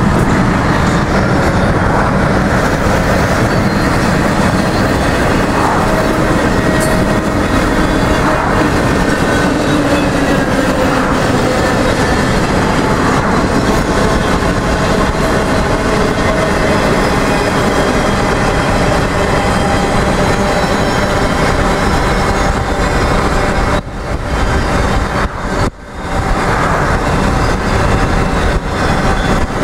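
Union Pacific intermodal freight train rolling past: trailer and double-stack container cars give a loud, steady rumble of wheels on rail. The noise dips briefly twice near the end.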